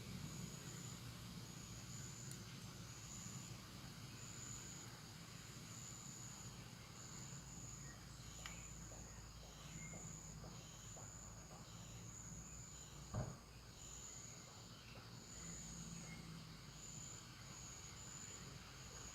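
Insect chorus in forest, a cricket-like high-pitched chirp pulsing in short bursts about once a second over a faint steady background. A single dull knock about two-thirds of the way through.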